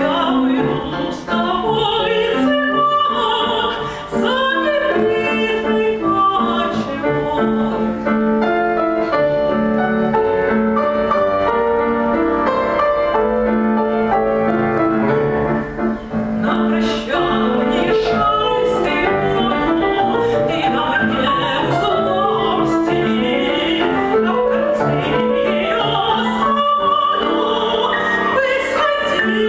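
A woman singing a Russian romance in classical voice, with piano accompaniment.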